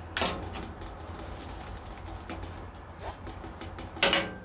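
Two sharp metallic clanks with a short ring, one near the start and one about four seconds in, from a wrench striking the metal bandsaw frame while the riser-block bolts are finished off. A steady low hum runs underneath.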